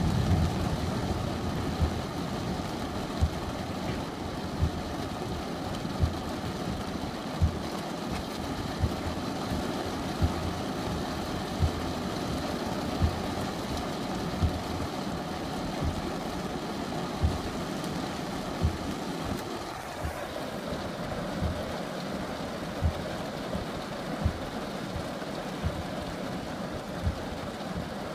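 Steady rushing noise of heavy rain during a thunderstorm, with a short low thump about every second and a half.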